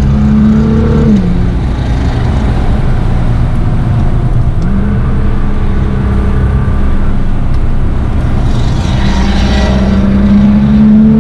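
Audi R8's 4.2-litre V8 through a straight-piped Armytrix titanium exhaust, running hard around a racetrack. The engine note drops about a second in, climbs again a few seconds later, then holds steady.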